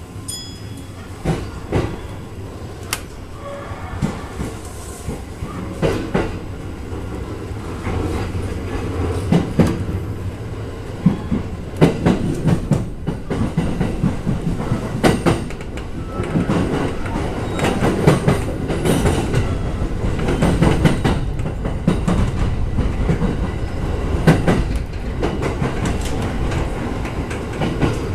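JR 209 series electric commuter train running along the track, heard from inside the front car: a steady rumble of wheels on rail that grows louder over the first several seconds, with irregular clicks and knocks as the wheels pass over the track.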